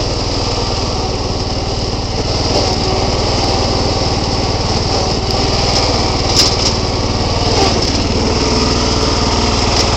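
Bolens garden tractor engine running steadily at high throttle under load, with a couple of brief knocks about six and seven and a half seconds in, while the tractor struggles for traction and its rear wheels slip.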